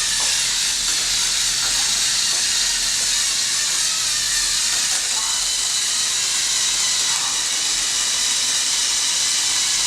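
Steady high hiss of a robotic vacuum cleaner's suction fan running, with faint voices in the background.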